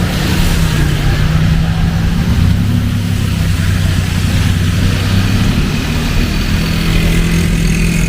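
A motor vehicle engine running steadily nearby, a low even hum, over the hiss of heavy rain.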